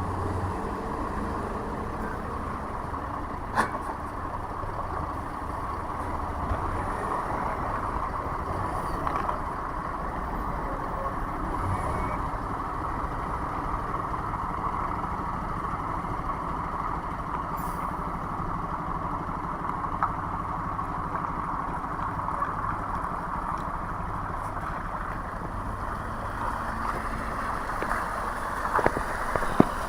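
MAZ-107 city bus with its Mercedes-Benz OM 906 LA six-cylinder turbodiesel running steadily.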